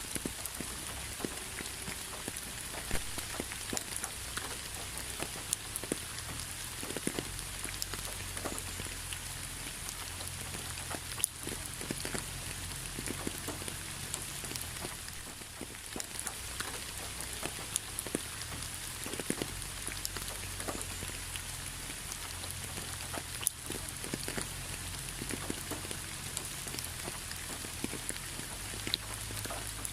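Steady rain falling, with a continuous hiss and many separate drops ticking irregularly on a surface, over a low rumble.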